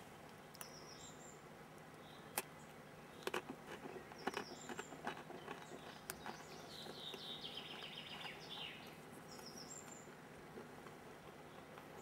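Faint crunching and clicking as dry wheat army crackers are bitten and chewed, in a cluster of sharp clicks in the middle. Small birds chirp in the background, with a short trill about two thirds of the way in.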